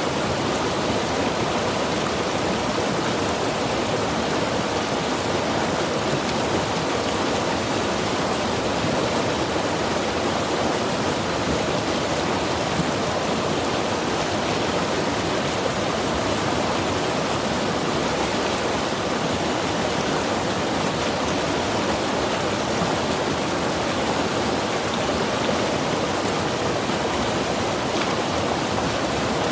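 Mountain river rushing steadily over rocks, an even full-bodied flow of water.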